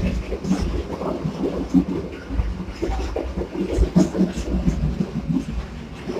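Passenger train running, heard from inside the carriage: a steady low rumble with irregular knocks and rattles.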